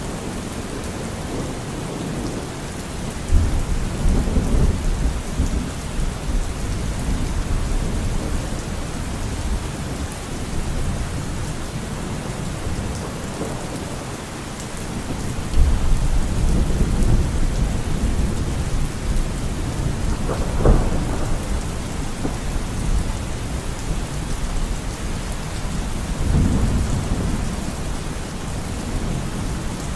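Steady rain falling, with rolls of thunder rumbling in low swells several times and one sharper thunder crack about two-thirds of the way through.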